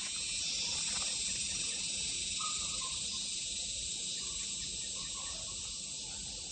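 Steady high-pitched insect chorus, with a couple of faint short tones about two and a half and five seconds in.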